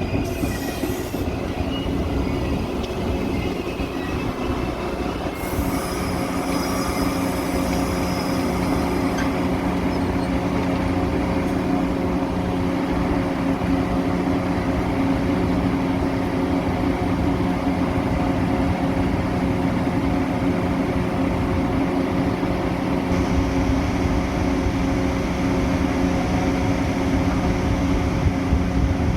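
Metra commuter train rolling along with a steady rumble and hum, with thin high wheel squeals in the first second and again about six to nine seconds in.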